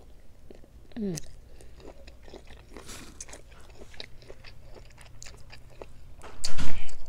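Close-miked chewing and wet mouth clicks of someone eating boiled shrimp, with a brief falling hum about a second in. Near the end comes a louder crackle as shellfish shell is pulled apart by hand.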